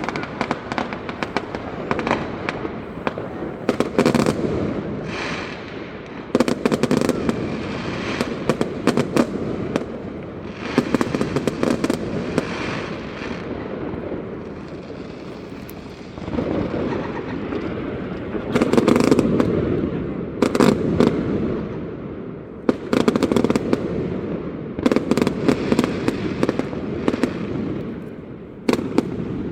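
Fireworks display: aerial shells bursting in rapid volleys with dense crackling, coming in waves that swell and ease every few seconds.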